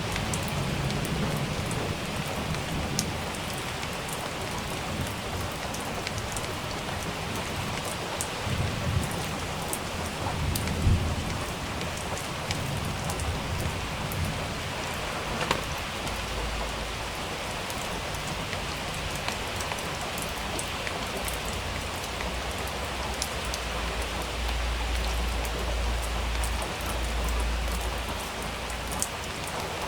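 Steady rain hissing down, with individual drops tapping sharply on a surface. Thunder rumbles low in the background, swelling about a third of the way in and again through the second half.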